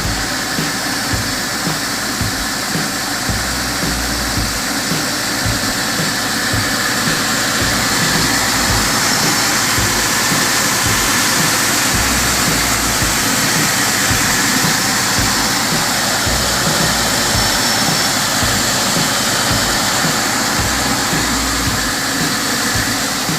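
Porsche 911 Carrera (993)'s air-cooled 3.6-litre flat-six engine running steadily, growing a little louder over the first several seconds.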